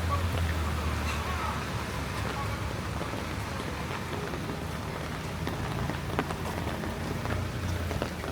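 Steady rain falling and spattering on surfaces, with scattered drop ticks. A vehicle's low engine hum sounds under it for the first second or so and returns faintly near the end.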